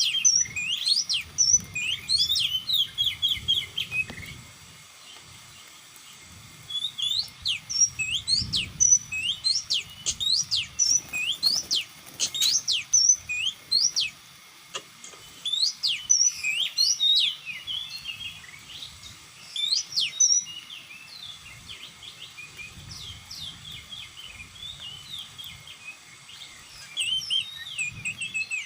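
Oriental magpie-robin singing: bursts of quick, sliding chirps and whistles, broken by short pauses and fading for a while before picking up again near the end.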